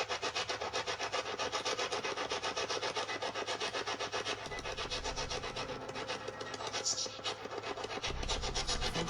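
Spirit box radio scanner sweeping through the radio band: a rapid, even chopping of radio static, many pulses a second. A low rumble comes in about halfway through and again near the end.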